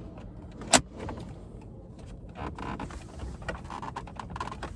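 A single sharp snap a little under a second in as a plastic dash trim clip on a Ford F-150 pops loose under a pry tool, then small clicks and rubbing of the plastic trim panel being worked free.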